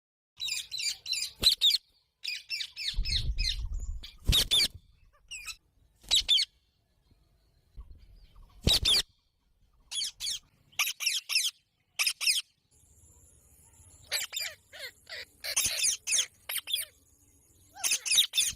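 Parrots squawking and chattering in repeated short bouts of shrill calls, with brief pauses between bouts.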